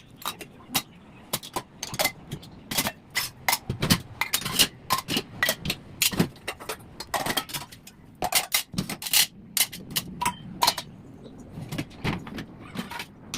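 Utensils clinking and clattering as they are set into dishwasher racks: many sharp, irregular metallic knocks, several a second.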